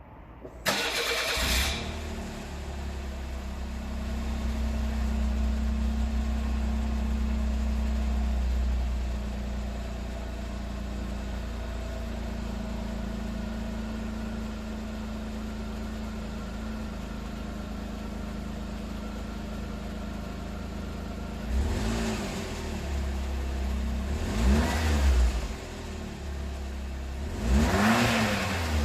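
Suzuki Wagon R MH21S's K6A turbocharged three-cylinder engine breathing through a Suzuki Sport aftermarket muffler. It starts up about a second in and runs at a raised idle that settles lower after several seconds. It is then revved three times near the end, each rev rising and falling quickly.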